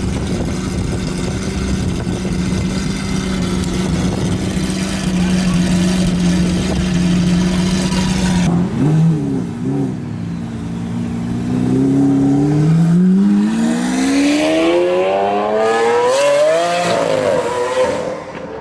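Car engine running at a steady note, then blipped twice and revved through a long rising acceleration that peaks and drops away near the end.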